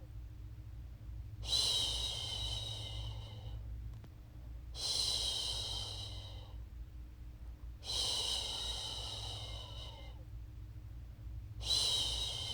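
A woman shushing "shhh" to soothe a baby to sleep, four long shushes about every three to four seconds, each starting sharply and fading out, over a steady low hum.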